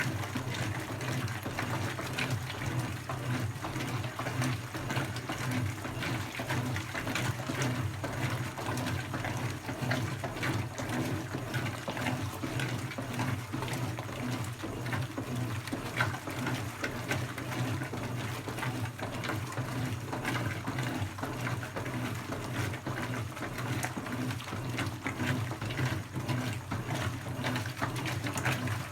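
Brastemp BWK17 17 kg washing machine filling: water pours steadily into the drum, over a constant low hum.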